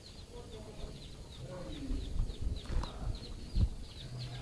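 A small bird chirping in a steady series of short high notes, about three a second, with a few dull low thumps in the second half, the loudest about three and a half seconds in.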